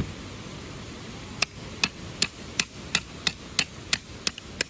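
A knife being struck through wood to split it, in sharp, evenly spaced knocks about three a second that start a little over a second in. One single sharp knock comes right at the start.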